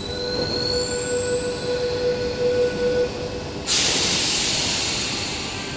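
Sydney double-deck electric train standing at the platform, giving off a steady tone and a faint rising whine. About three and a half seconds in, a sudden loud hiss of released air starts and slowly fades.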